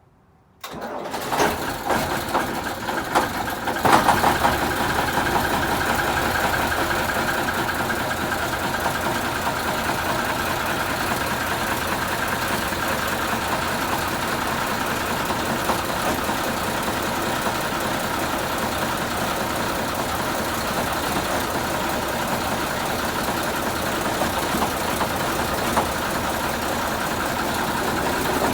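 Praga V3S truck's air-cooled Tatra six-cylinder diesel cold-starting after standing a long time in winter. It cranks and fires unevenly for about three seconds, catches about four seconds in, and then runs at a steady idle.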